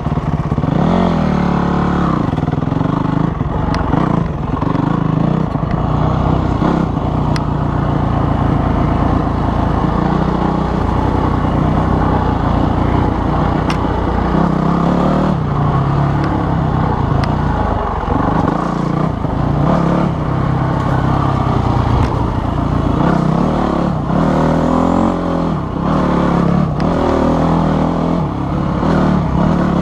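Dirt bike engine running under way, its pitch repeatedly rising and falling with the throttle.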